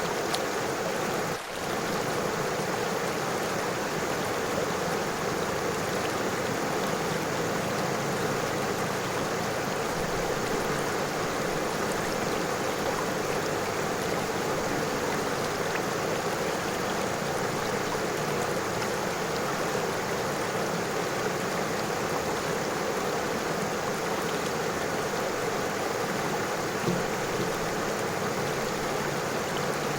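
River water flowing in a steady, even rush, with a brief dip in level about a second and a half in.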